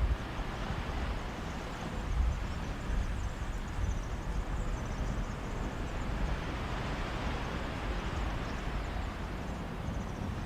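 Sea waves washing onto a beach in a steady rush that swells in the middle, with wind rumbling on the microphone underneath.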